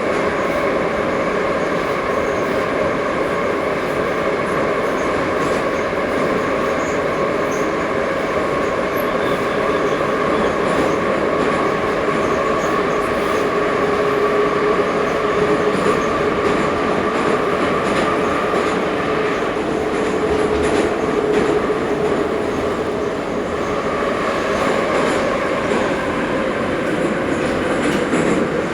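Ezh3 metro train running steadily between stations: a constant rumble of wheels on rail with a steady whine of several held tones.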